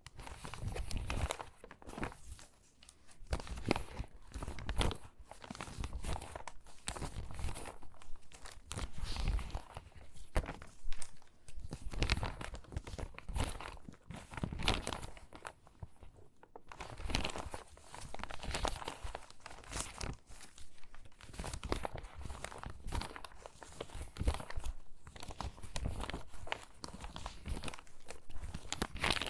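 Crinkly, water-damaged magazine pages rustling and crackling as they are handled and sorted by hand, in irregular bursts with brief pauses.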